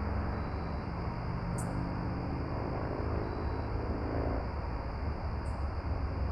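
Steady low rumbling background noise, with a faint droning hum through the middle and two brief high ticks, one near the start and one near the end.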